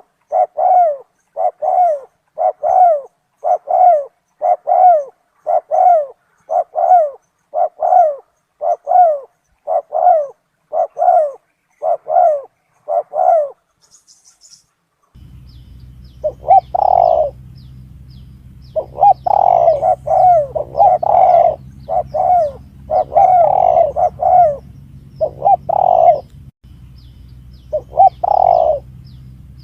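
Spotted dove cooing, a recorded lure call for the bird: a steady run of short, evenly spaced coos, then after a brief pause a new stretch of coos in irregular groups over a low steady hum.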